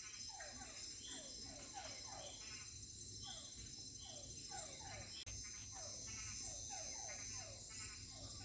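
Night chorus of frogs: many short falling calls, a few a second, overlapping, over a steady high insect trill. A brief dropout comes about five seconds in.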